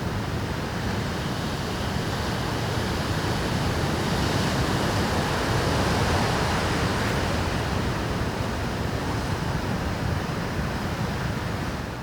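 Rough Pacific surf breaking on a rocky shore: a continuous wash of waves that swells louder around the middle, as a bigger wave crashes in.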